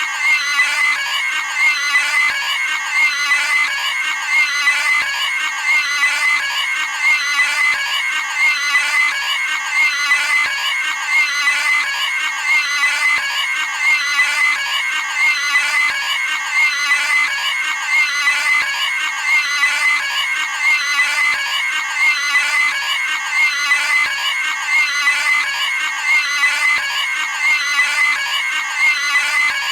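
Cartoon pig's high squealing scream, the same short cry repeated over and over in an even, unbroken loop.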